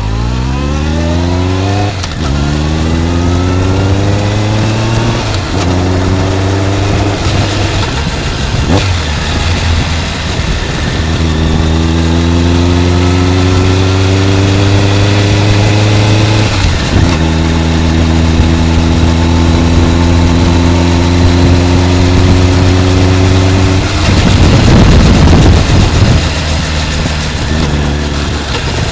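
Honda CB motorcycle with a titanium full exhaust, running under load. The engine note rises through several upshifts, climbs slowly again, then holds steady at a cruise. Wind noise rushes over the microphone throughout and swells loudly near the end.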